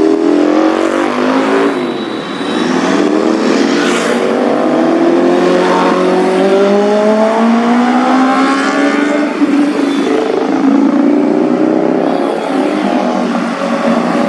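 Superbike engines running hard and accelerating, several at once. Their pitch repeatedly climbs and drops with revs and gear changes as they go by.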